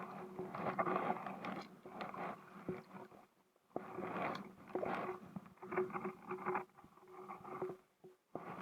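Kayak paddling: the paddle blades dip and pull through the water in a steady rhythm of about one swishing stroke a second, with a brief pause about three seconds in.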